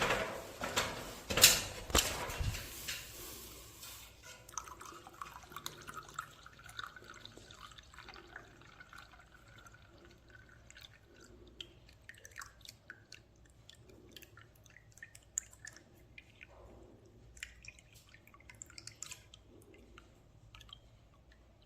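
Water poured into a system air conditioner's drain pan for a gravity-drainage test: loud splashing for the first couple of seconds, then a thin trickle and scattered drips.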